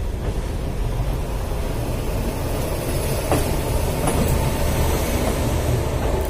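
Moving passenger train's coaches running on the rails, heard from the open doorway: a steady low rumble with wheel clatter, and a few sharp clicks about three and four seconds in.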